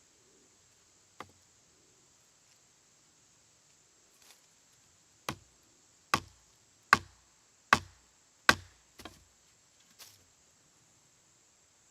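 Sharp strikes on wood: a single knock about a second in, then a steady run of six hard strikes under a second apart, and a lighter one near the end.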